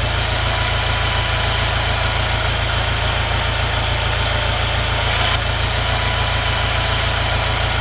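Steady running noise of a small machine, a constant low hum with a fine rapid rattle and no change in speed.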